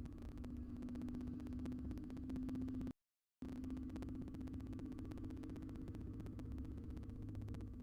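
Steady electrical hum with a low rumble and fine crackling static from a nest-box camera's microphone, cutting out to dead silence for about half a second about 3 s in.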